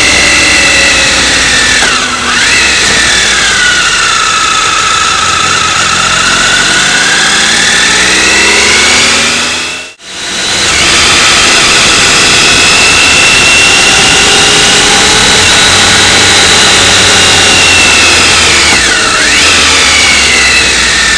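Motorcycle engine running under way over wind noise, its pitch rising and falling with the throttle, with a quick dip and recovery in pitch about two seconds in and again near the end, like gear changes. It cuts out briefly in the middle.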